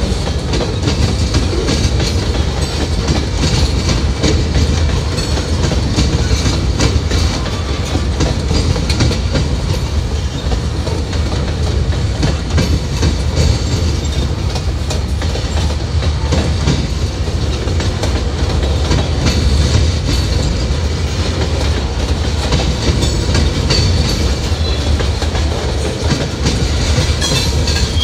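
A train's cars rolling steadily past, wheels clicking over the rail joints over a steady low rumble, with a brief high squeal near the end.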